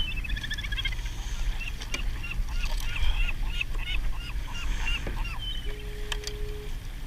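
A bird calling in a long run of short, quickly repeated notes, about five a second, over a steady low rumble of wind and water. A short steady tone sounds near the end.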